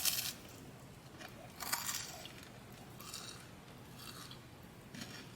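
Close-up eating sounds of a mochi donut being bitten and chewed: a few short crunchy bites about a second apart, the loudest about two seconds in.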